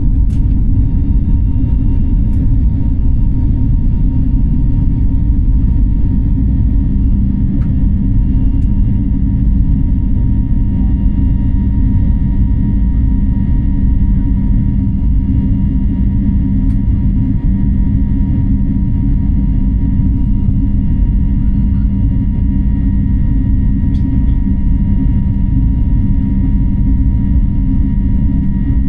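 Airliner cabin noise in flight: a steady, loud low rumble of engines and airflow, with a constant hum on top.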